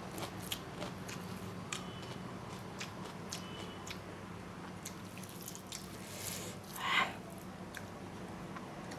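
Close-miked mukbang eating: a person chewing, with scattered small wet mouth clicks and smacks. About seven seconds in, a single short louder sound from the mouth or nose.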